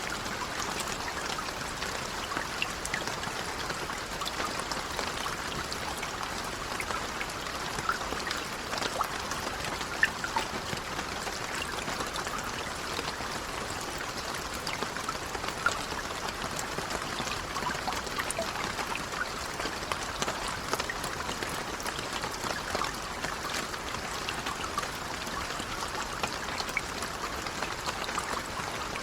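Steady light rain, an even patter with many small scattered drop ticks and a few sharper single drops.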